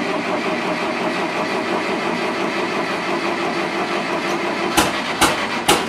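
International Harvester 504 tractor's gas engine cranking over on a cold start, a steady churning sound. Near the end come three sharp loud pops, and then it stops abruptly.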